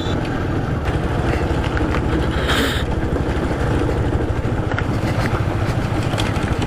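Motorcycle engine running at low speed with a rapid, steady pulsing beat as the bike goes down a steep slope. A short burst of hiss comes about two and a half seconds in.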